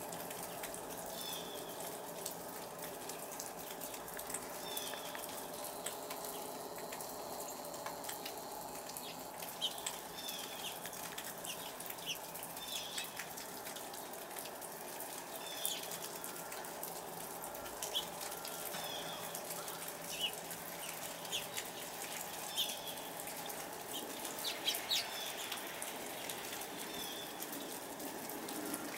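Sleet (ice pellets) falling steadily, a constant hiss with fine ticking, while small birds give short high chirps every second or two.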